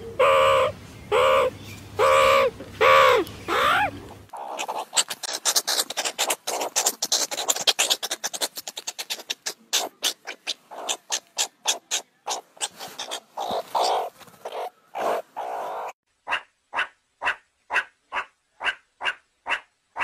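A run of animal calls: a few pitched calls in the first four seconds, the last one falling in pitch, then a fast, dense chatter of clicks and chirps, and from about 16 seconds in, short calls repeated evenly about twice a second.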